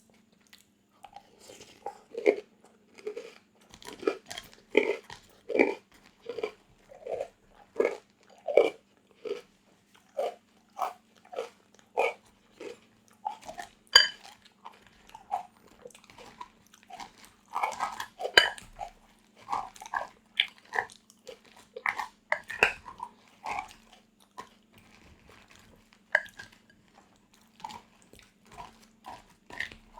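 Close-miked crunchy chewing and biting: a person eating a crisp food, with a steady rhythm of a little more than one chew a second.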